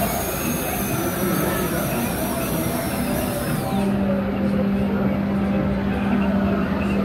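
Steam train noise with a high hiss that stops about four seconds in, then a long steady low tone held for over three seconds.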